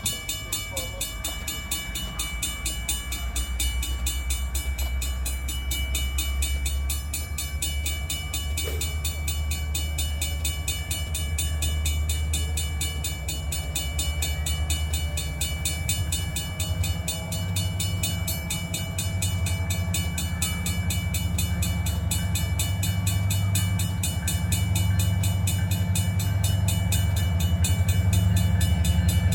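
Diesel-hauled train running, a steady low rumble that grows louder toward the end as it draws nearer.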